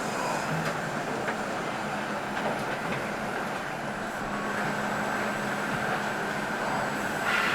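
Steady mechanical din of factory machinery: a continuous noisy rumble with a faint, high, steady whine over it.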